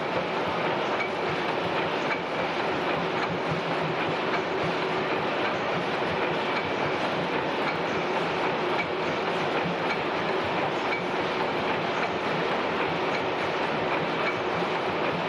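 Four 400 HP Snow tandem natural-gas pumping engines running together under full load, a steady dense mechanical clatter with faint repeated clicks: the engines' "mechanical music".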